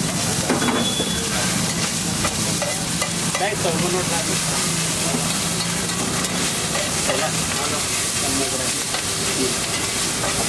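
Steady sizzling of food frying on large flat iron griddles (tawas).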